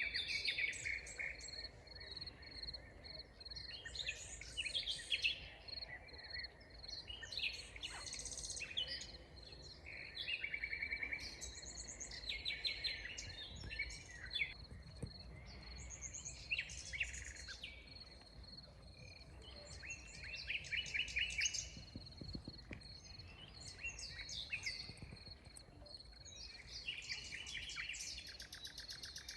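Several songbirds singing and calling in a forest, overlapping short phrases and rapid trills, over a thin steady high-pitched tone and a low rumble of background noise.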